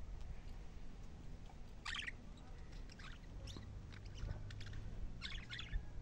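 Small birds chirping: a few short, sharp chirps, one about two seconds in, a couple around three and a half seconds, and a quick cluster near the end, over a low steady background rumble.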